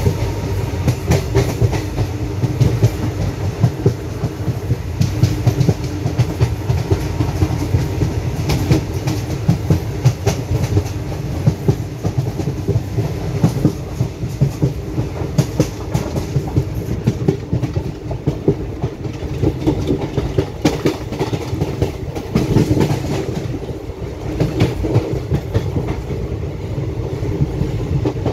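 Passenger express train running at speed: steel wheels clattering over rail joints in a rapid, irregular rhythm over a steady rumble.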